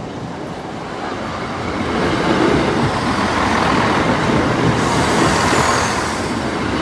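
Class 170 Turbostar diesel multiple unit passing close by at low speed, growing louder from about a second in and at its loudest as the cars go past.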